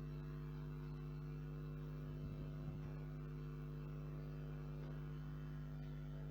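Steady low electrical hum, a mains hum with several even, unchanging tones, plus a little faint hiss.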